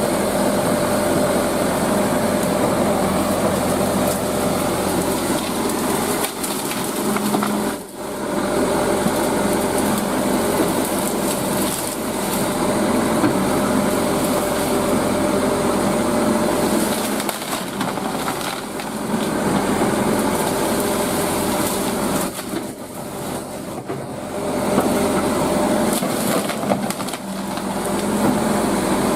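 Excavator's diesel engine running steadily under load, with wood cracking and splintering as trees and brush are crushed and pushed over.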